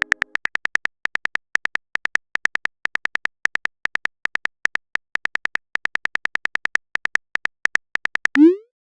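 Phone keyboard typing sound effect: rapid short clicking beeps, about six to eight a second in uneven runs, as a text message is typed. Near the end a short rising swoop, the message-sent sound.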